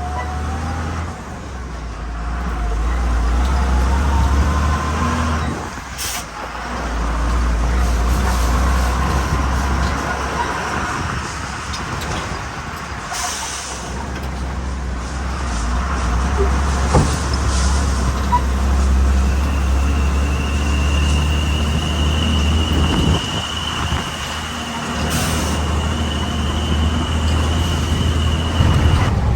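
A truck's diesel engine runs steadily while driving, dropping off briefly a few times. There are short hisses about a third of the way in, near the middle and near the end, and a steady high whine over the last ten seconds.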